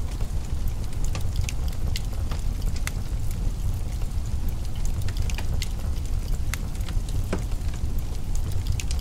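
Wood fire crackling in a fireplace: irregular snaps and pops of burning firewood, a few per second, over a steady low rumble.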